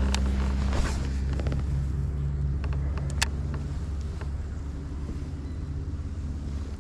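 A steady low rumble with a few sharp clicks and taps over it, the sharpest about three seconds in.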